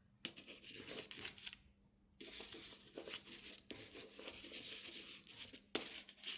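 Wet pastel pencil scribbling on packing tape: faint, scratchy back-and-forth strokes in two runs with a short pause between, and a sharp tap near the end.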